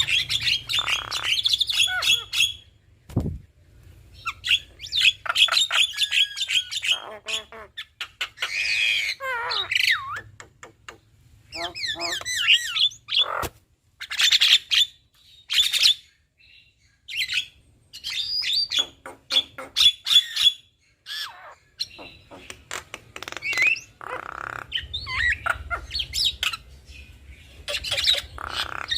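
Javan mynas, a male and a female, calling in a duet: a varied stream of chattering, gliding whistles, fast rattling clicks and harsh squawks, broken by short pauses.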